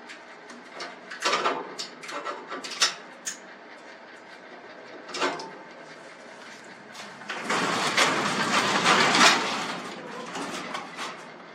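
Sectional garage door pushed by hand along its metal tracks: scattered clanks and knocks, then about two-thirds of the way in a rumbling, rattling run of the rollers in the track lasting two to three seconds.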